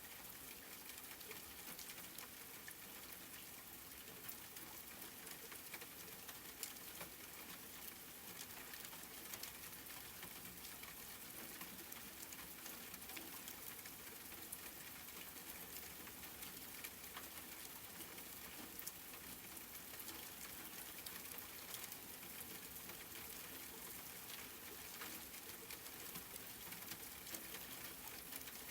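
Soft, steady rain, with scattered sharp ticks of individual drops striking a surface.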